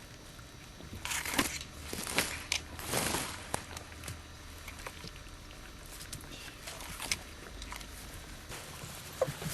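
Four-week-old husky-malamute puppies moving about and chewing: irregular scuffs, scratches and knocks, busiest in the first few seconds, then sparser.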